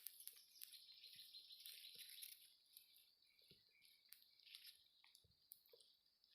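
Near silence: faint forest ambience with soft high-pitched chirping in the first two seconds and a few scattered small clicks.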